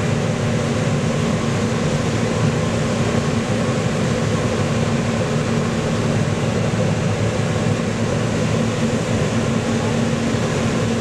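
A heavy farm machine's engine runs steadily at a constant speed, giving an unbroken low drone with a steady hum.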